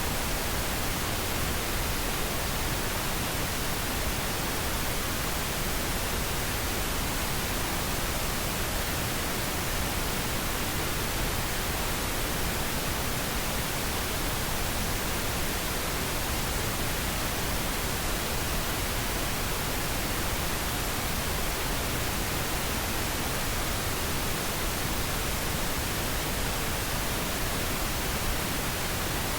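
Steady white noise: an even, unbroken hiss with no other events.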